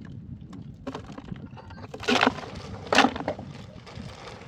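Wood cracking and snapping: two loud, sharp cracks about two and three seconds in, with smaller knocks of wood around them.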